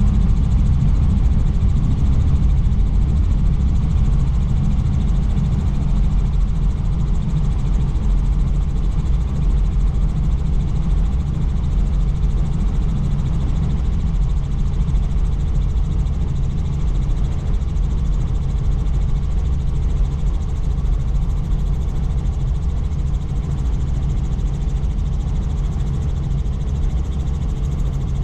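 Helicopter in flight: the loud, steady drone of its rotor and engine, a deep hum with even low tones that barely changes.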